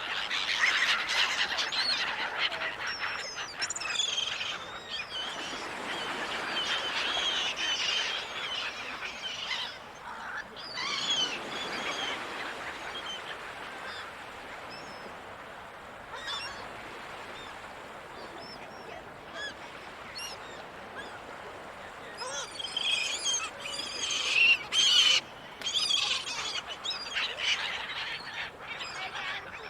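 Seagulls calling over one another: many short cries and squawks from several birds over a steady hiss. The calling is busiest at the start and again in the last third, and thinner in between.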